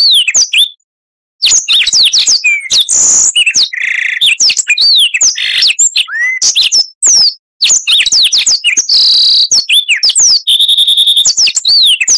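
Oriental magpie-robin (kacer) singing a loud, varied song of rapid whistled glides and chirps, broken by two brief pauses, with a few held buzzy notes in the second half.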